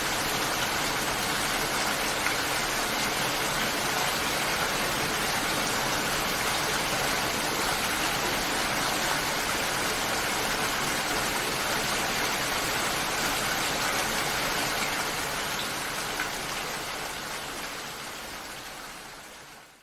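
Steady, heavy rain falling, a dense even wash of water sound that fades out over the last few seconds.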